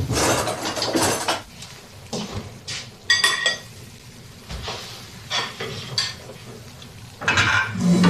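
Cutlery and dishes clinking and knocking, with one ringing clink about three seconds in.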